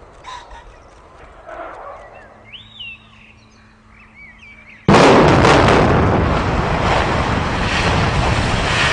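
Controlled demolition of a concrete tower block: after a few quiet seconds, a sudden loud blast about five seconds in, a rapid string of cracks from the charges, then a continuous loud rumble as the block comes down.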